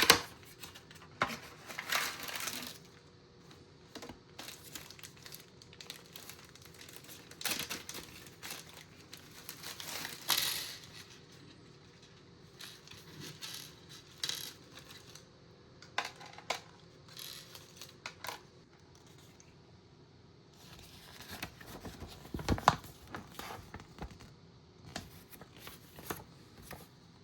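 Intermittent crinkling of plastic packaging with small clicks and taps, as the case's accessory box and its bagged screws are handled and opened. Short bursts come and go, the loudest about 2, 10 and 22 seconds in.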